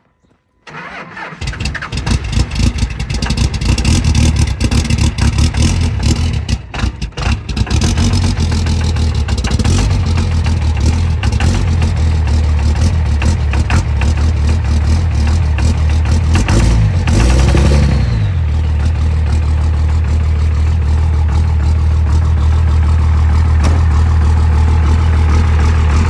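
2001 Dodge 2500 pickup engine cold-started after a night at 14 degrees: it cranks and catches within the first second or two, then runs rough and uneven, stumbling about six to seven seconds in. It then settles into a steady idle, with one brief rev up and back down about two-thirds of the way through.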